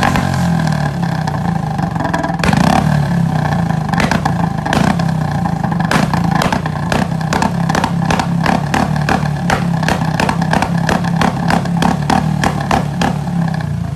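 Royal Enfield single-cylinder motorcycle running through a loud aftermarket silencer, its exhaust letting off repeated sharp firecracker-like pops and crackles over the engine note. The pops come irregularly at first and grow more frequent, several a second, from about halfway through.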